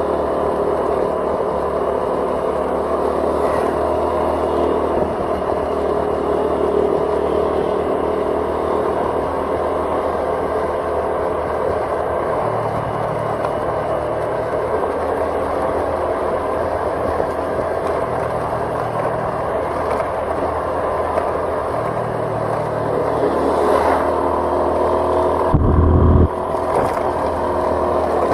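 A vehicle engine running steadily on the move, with road and wind noise, heard from on board. Near the end a loud, low rumble lasts about half a second.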